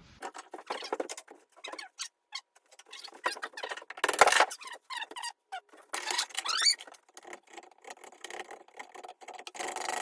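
A wooden axe handle being shaped by hand with a scraping or rasping tool: a run of short, irregular scratchy strokes, the loudest about four seconds in.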